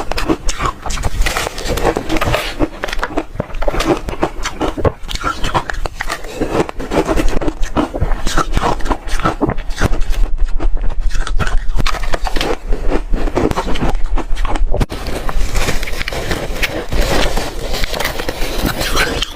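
Hard, refrozen ice being bitten and chewed, a dense run of rapid crunches and cracks.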